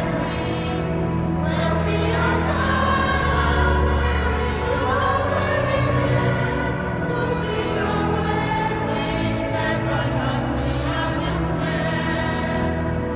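Choir singing a sacred piece, with steady low notes held beneath the voices.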